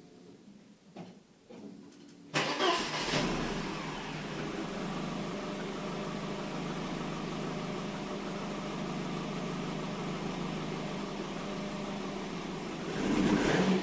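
Cold start of a Mercedes W124's 2.0-litre M102 four-cylinder engine with KE-Jetronic injection: it catches suddenly about two seconds in, flares up, then settles to a steady idle. The revs rise briefly near the end.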